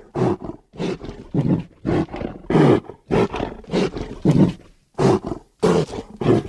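Creature sound effects voicing a Scutosaurus: a quick run of short roaring calls, about two a second.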